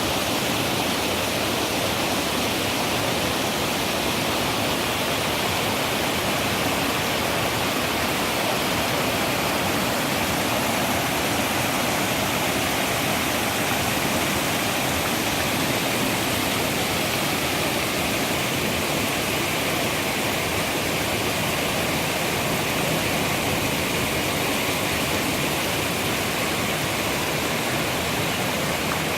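Water flowing, a steady, even rush that does not change.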